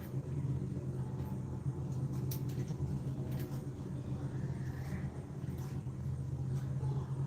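A steady low rumble or hum, with faint light clicks over it and a brief faint high sound about four seconds in.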